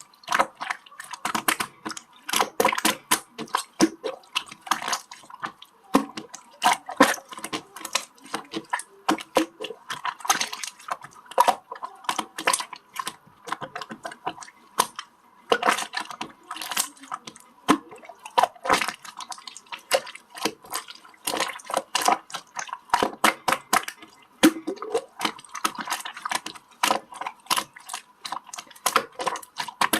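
Slime being squished and worked by hand, giving a rapid, irregular run of wet, sticky clicks and crackles.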